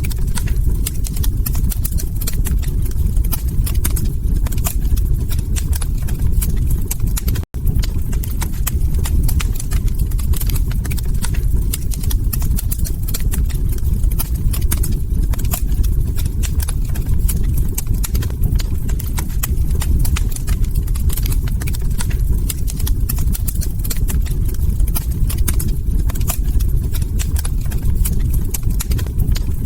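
Log fire crackling: a dense, steady run of small crackles and pops over a low rumble. The sound cuts out for an instant about seven and a half seconds in.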